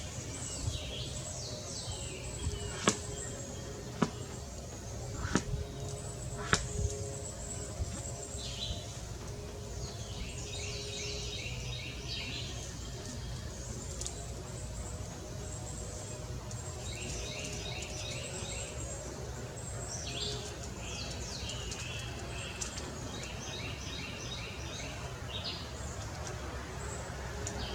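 Wild birds singing rapid trilled phrases of quickly repeated high notes, again and again. A few sharp clicks stand out in the first seven seconds.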